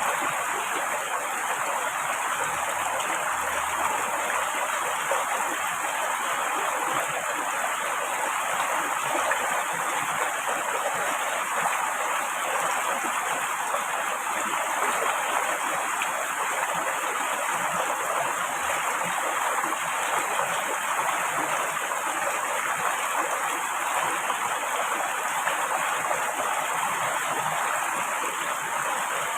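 Steady rushing of a river's flowing water, an even noise that holds without a break.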